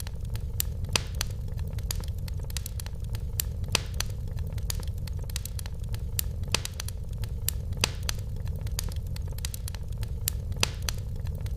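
Wood fire burning in a fireplace: a steady low rumble with frequent irregular crackles and occasional louder pops.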